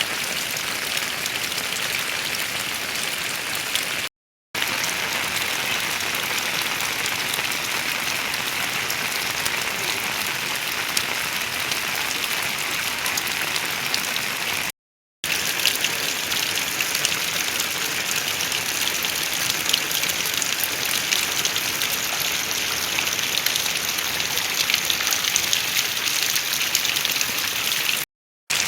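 Heavy rain falling steadily, an even hiss with scattered sharper drop ticks, more of them in the second half. It cuts out briefly three times, about 4, 15 and 28 seconds in.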